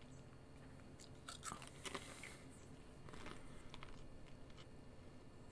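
Faint crunching and chewing of Pringles potato crisps, with a cluster of crunches around one and a half to two seconds in and softer chewing after three seconds.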